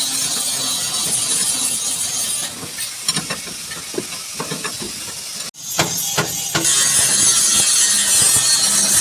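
Steady loud hiss over a low hum that drops away after a couple of seconds, giving way to a few sharp knocks and clicks, then starts again and runs on.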